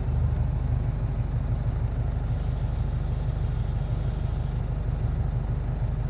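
Heavy truck's diesel engine running steadily, a low hum heard from inside the cab.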